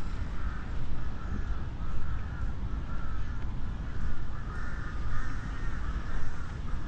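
Crows cawing again and again, in short rasping calls, over a steady low rumble of wind or distant city traffic.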